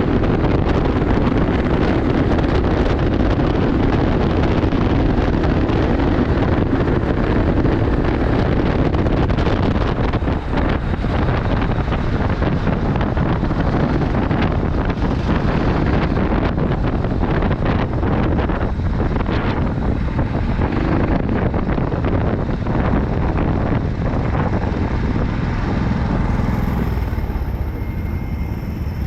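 Wind buffeting the microphone over the running of go-kart engines, a steady noise that eases a little near the end.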